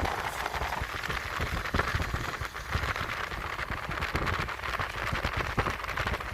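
Rain falling, a steady hiss with many small crackling taps, with wind buffeting the microphone as a low rumble.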